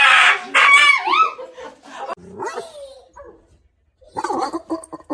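A dog barking and yelping: a loud rough bark, then short cries that rise and fall in pitch. About four seconds in, a fast run of short repeated sounds begins.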